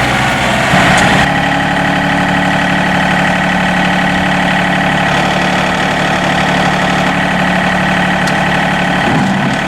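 The 3-cylinder Yanmar diesel of a John Deere 3025E compact tractor running steadily. Its note shifts about a second in, then holds.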